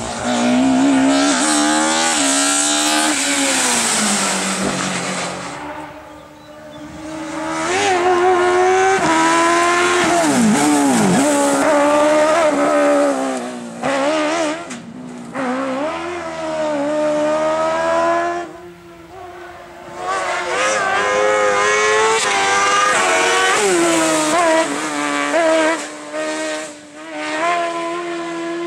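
Racing car engines at full throttle, pitch climbing and dropping sharply through quick gear changes and lifts for braking, in several separate hard passes.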